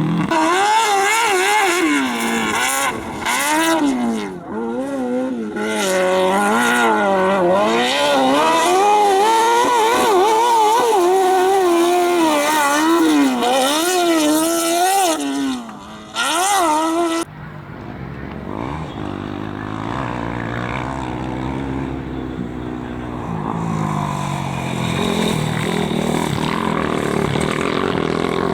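A high-revving competition engine at full attack, its revs swinging rapidly up and down as the throttle is worked and lifted through the course, with brief drops about four and sixteen seconds in. About seventeen seconds in the sound cuts abruptly to a quieter, lower engine note whose revs rise and fall more slowly.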